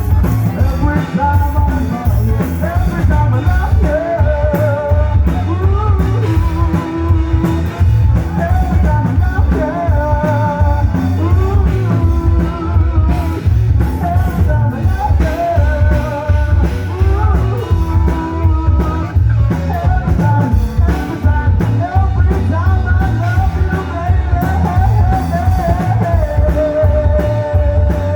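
Rock band playing a song with a sung lead vocal over heavy bass and drums.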